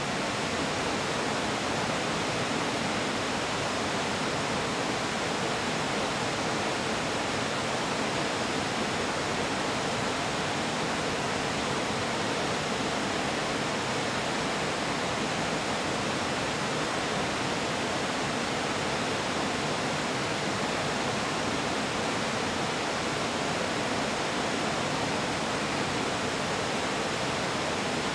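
Waterfall rushing steadily: an even, unbroken noise of falling water with no change in level.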